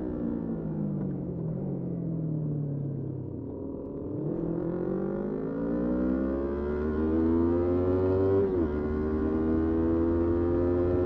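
Motorcycle engine falling in revs for about four seconds, then pulling up again, with a quick gear change about eight and a half seconds in, after which it runs steady.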